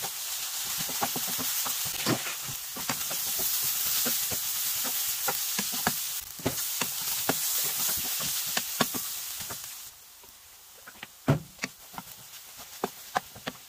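Fish cake, onion and carrot sizzling in a frying pan while a spatula stirs them, with frequent clicks and scrapes of the spatula against the pan. About ten seconds in the sizzle drops away, leaving scattered spatula taps, one of them loud.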